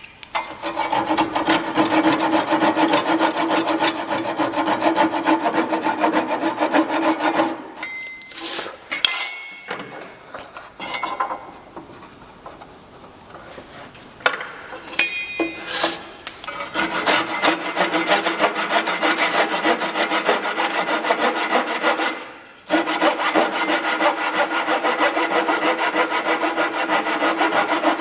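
A tool scraping and abrading white oak in long continuous passes. There is a quieter, broken stretch in the middle and a brief stop about three-quarters of the way through.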